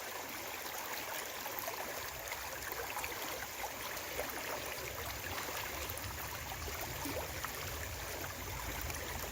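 Creek water running and splashing steadily over rocks, the stream high after heavy rain.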